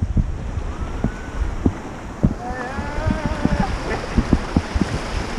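Rushing river water and wind buffeting the microphone on a raft, with frequent short knocks. A wavering high-pitched cry rises over it for about a second, midway through.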